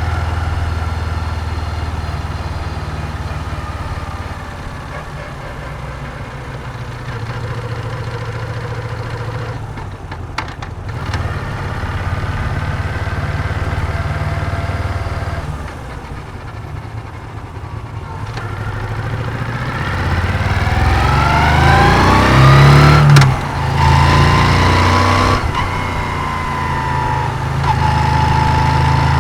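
Moto Guzzi V7's air-cooled transverse V-twin heard from the rider's seat: running at low revs and easing down toward idle, then accelerating hard about two-thirds in, with short dips at two upshifts, and settling into a steady cruise near the end.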